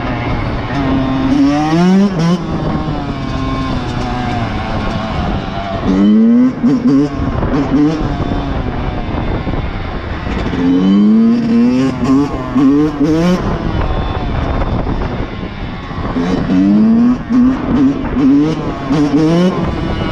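Motorcycle engine accelerating hard four times, each pull climbing in pitch through several quick gear changes, with steady rushing noise between pulls.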